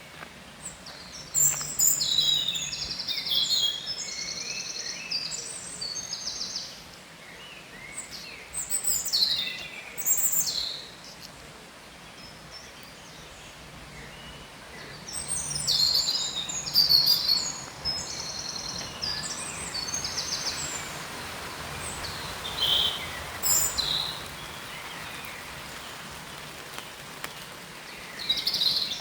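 Songbirds singing in several bursts of high chirps, trills and warbles, over a steady outdoor background hiss that swells for a few seconds in the latter half.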